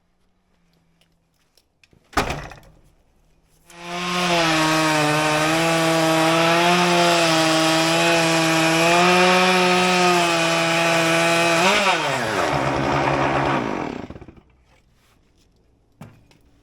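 Stihl MS661 chainsaw running at high, steady revs in a Logosol chainsaw mill, ripping through a maple log for about ten seconds. Near the end its pitch drops and it runs lower briefly before stopping. A single sharp knock comes a couple of seconds before the saw sound starts.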